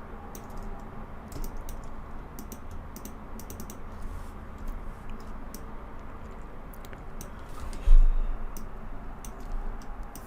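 Computer keyboard keys clicking in irregular clusters of quick taps, with one dull low thump about eight seconds in.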